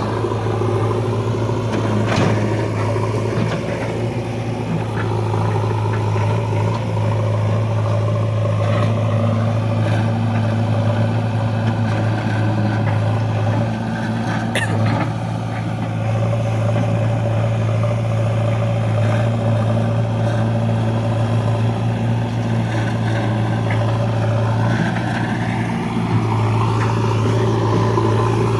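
Heavy diesel machinery engine running steadily at constant speed, a low even drone, with one sharp click about halfway through.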